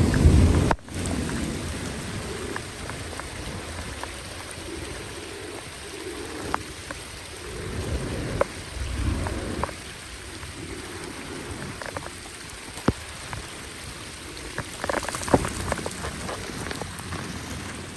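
Water sound, rain or water running and dripping around a storm drain: a steady wet hiss with scattered drips and splashes and a short cluster of them near the end. It opens with a loud low rumble that cuts off abruptly within the first second.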